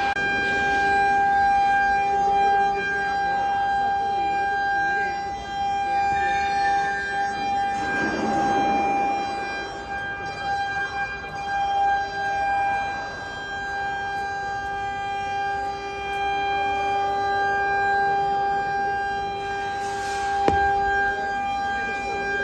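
Woodworking CNC router's 5.5 kW water-cooled spindle running with a steady, unchanging high whine. A rougher cutting noise swells about eight seconds in and again near the end, with one sharp click just before the end.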